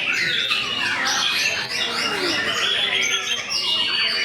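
White-rumped shamas singing, a dense run of overlapping, varied whistles that sweep up and down in pitch, with sharper chattering notes mixed in.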